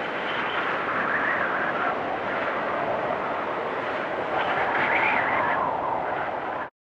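Wind storm: a steady rush of wind with whistling gusts that swell about a second in and again around five seconds in. It cuts off suddenly near the end.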